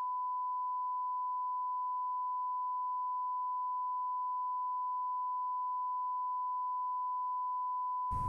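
A steady, unwavering 1 kHz bleep tone dubbed over the soundtrack in editing, replacing all other sound, cutting off just before the end as outdoor sound returns.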